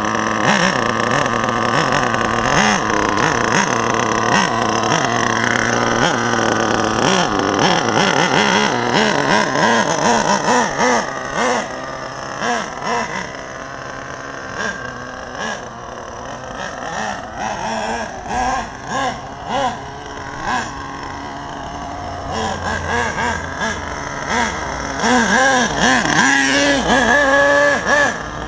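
HPI Savage 1/8-scale RC monster truck's 4.6 cc RB nitro engine running and revving, its pitch rising and falling. It is loud for the first dozen seconds, drops to a lower level with short repeated blips of throttle through the middle, then runs loud again near the end.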